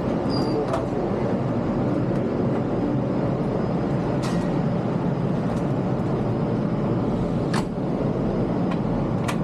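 Steady low rumble of train and transit noise, with a few sharp clicks scattered through it.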